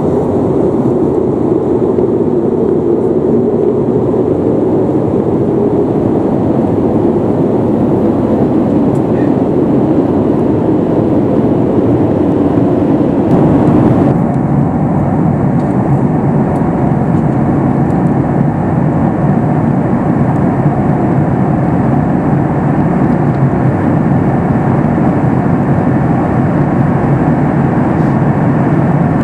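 Steady cabin noise of a Boeing 737 MAX 8 in flight: the rush of air along the fuselage mixed with the hum of its CFM LEAP-1B engines. About halfway through the sound changes abruptly, losing some hiss and gaining low rumble.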